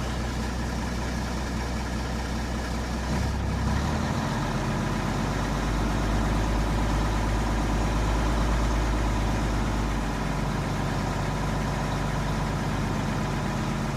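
Mack R-611 truck's six-cylinder diesel running steadily, then about three seconds in the engine speed steps up and holds at a raised idle, easing back a little near ten seconds.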